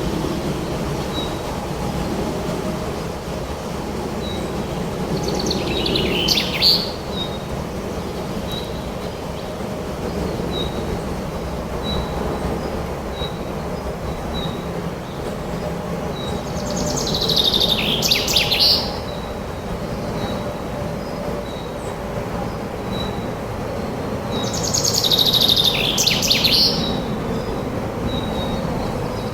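Songbird song in three phrases of about two seconds each, over a steady low rush of wind. A faint, short high note repeats about once a second.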